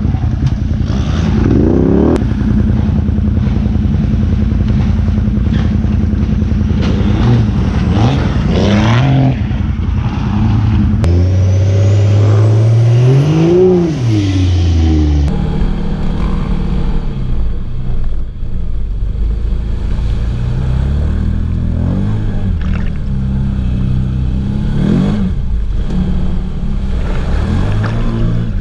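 A truck engine revving hard, its pitch climbing and falling again and again as the truck is driven hard off-road. About eleven seconds in, one long rev climbs to a peak and then falls away.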